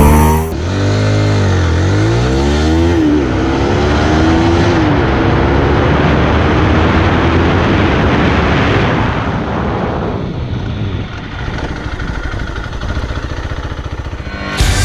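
Sport motorcycle accelerating hard at full throttle, its engine pitch climbing and then dropping at each quick upshift, then drowned in wind and engine roar at speed. About ten seconds in it falls to a quieter, rougher running, and music starts right at the end.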